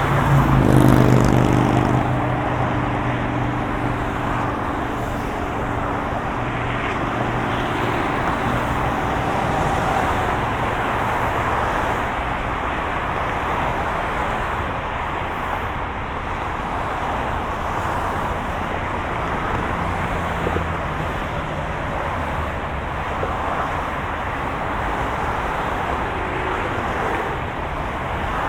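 Moving car: a steady rush of road and tyre noise with a low engine hum. About a second in, a louder engine tone swells and fades over the next couple of seconds.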